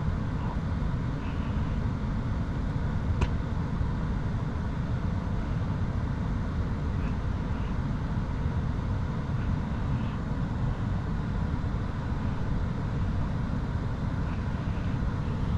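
Steady low rumble inside a stopped car, with one faint click about three seconds in.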